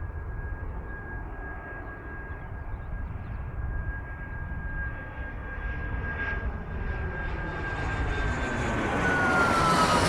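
Airliner engines growing louder as the aircraft comes in close on its landing approach, a steady high whine that falls in pitch near the end as it passes by.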